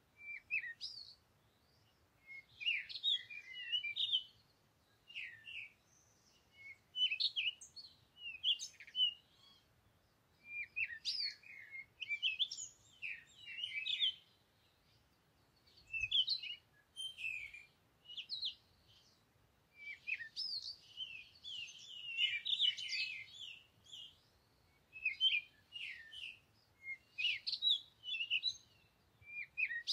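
Small birds chirping and twittering: short, high, quick notes in repeated bursts of a second or two, with brief pauses between them.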